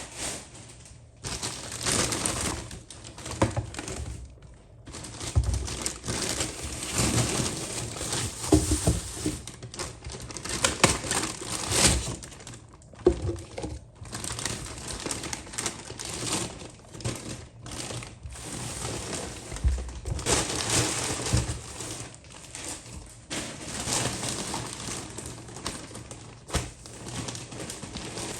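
Crinkling and rustling of things being handled, with scattered clicks and knocks.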